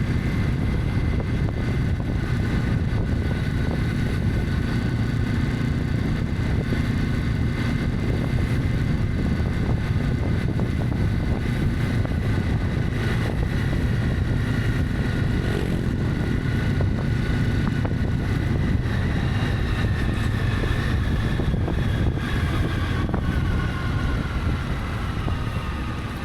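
Honda CB300F motorcycle engine running at a steady cruise, with wind rushing over the microphone. Near the end the engine note falls and gets a little quieter as the bike slows.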